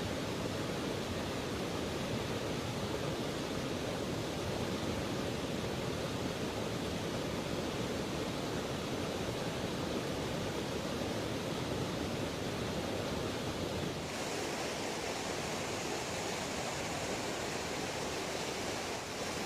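River water rushing in a steady, even hiss, turning a little thinner and hissier about fourteen seconds in.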